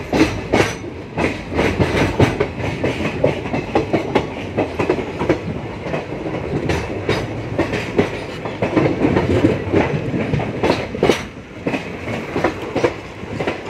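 Passenger express train running at speed, heard from inside the coach: a steady rumble of wheels on the track with many irregular sharp clicks and knocks as the wheels clatter over the rails.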